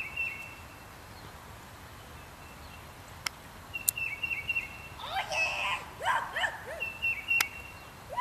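A songbird repeating a short, high phrase of notes, three times. About five seconds in, a child's voice calls out in rising and falling shouts, and a few sharp single clicks are heard.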